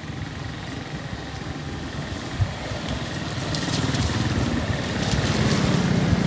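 Fast-flowing floodwater rushing in a swollen channel, a steady noise that grows louder, with wind buffeting the microphone near the end.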